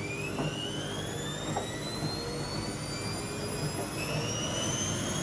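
Bauknecht WA Aquaton 1400 washing machine spinning up: the motor's whine rises steadily in pitch as the drum accelerates, over a low hum.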